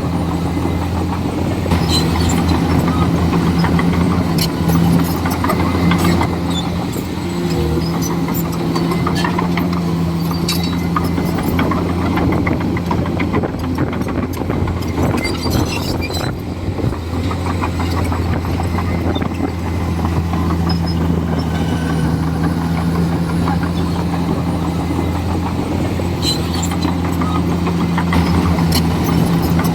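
Komatsu D41E bulldozer's diesel engine running steadily, with scattered short clicks over it.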